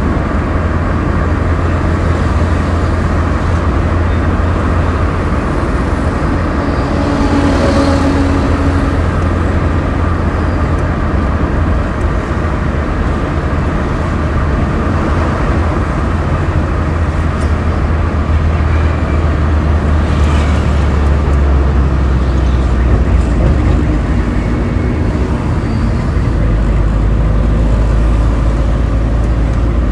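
Road traffic noise: a continuous wash of passing car and heavier vehicle engines and tyres with a deep, steady rumble, and a brief higher tone about seven seconds in.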